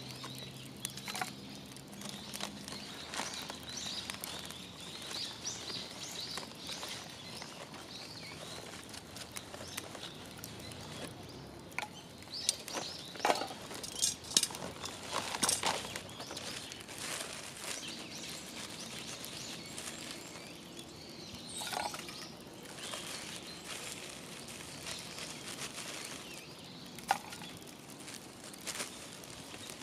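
Outdoor ambience with birds chirping and scattered clicks and knocks, a cluster of them about halfway through.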